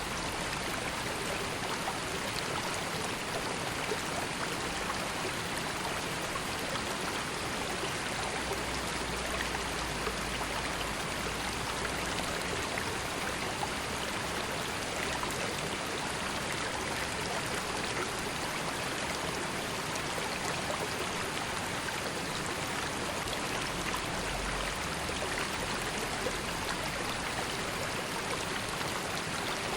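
River water flowing and babbling steadily over stones, a continuous even rush with fine splashing detail.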